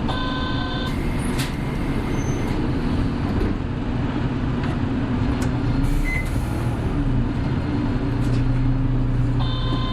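Hino Blue Ribbon City Hybrid city bus heard from inside while driving, with a steady diesel engine drone that strengthens in the second half. A short electronic tone sounds in the first second and again near the end.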